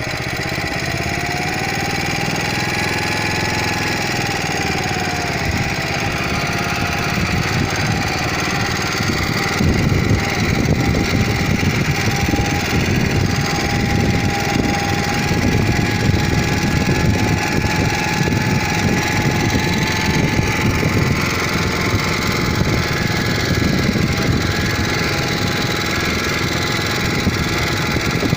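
Motor Sich walk-behind tractor's small engine running continuously with a dense, rapid chugging, a thin whine above it. It gets louder about ten seconds in.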